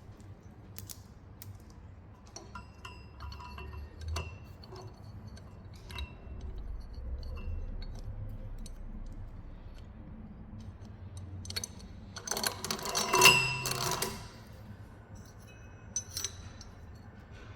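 Metal parts and tools being handled on a workshop bench: scattered clinks and knocks, then a louder metallic clatter with ringing tones about twelve seconds in, over a low workshop hum.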